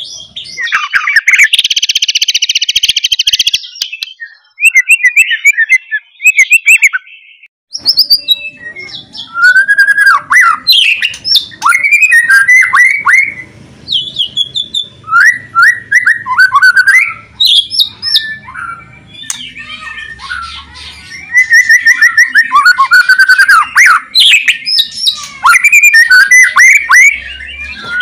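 White-rumped shama (murai batu) singing loudly: a fast, varied string of whistled phrases and trills. A harsh buzzing rattle comes early on, and there is a short pause about a quarter of the way through.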